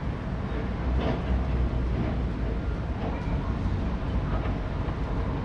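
Steady low rumble, even in level, with a faint haze of higher noise over it.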